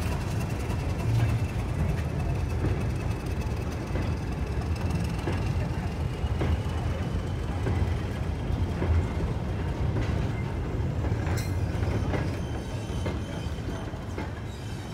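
Goods train of wooden brake vans and steel iron ore tippler wagons rolling past behind a Class 31 diesel: a steady low rumble with scattered wheel clicks and knocks and a faint thin whine. It fades near the end as the train draws away.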